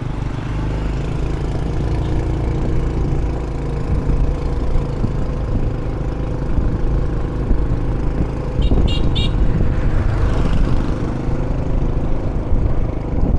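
Motorbike engine running steadily while riding, with a heavy low rumble. About nine seconds in there are three short, high-pitched beeps close together.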